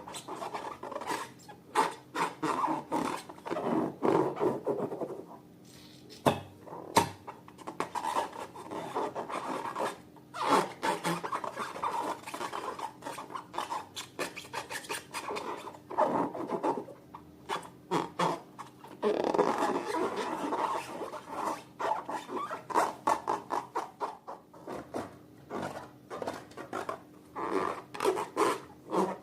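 Slime worked by hand: a dense run of sticky clicks and crackles over rubbing and squishing, with brief pauses now and then.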